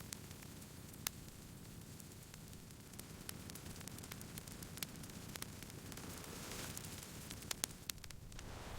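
Wood campfire crackling: irregular sharp pops and snaps over a low steady hiss, with a few louder pops about a second in and a quick cluster of them near the end.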